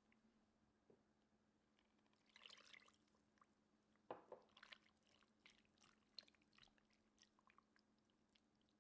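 Faint food-preparation sounds: a short wet pour or splash about two and a half seconds in, a sharper knock about four seconds in, and small scattered clicks and squishes, as of ingredients being added to a bowl of sliced chicken and mixed.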